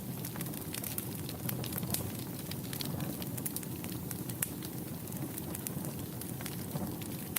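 Wood fire in a fireplace burning with a steady low rush, crackling with many irregular sharp pops and snaps.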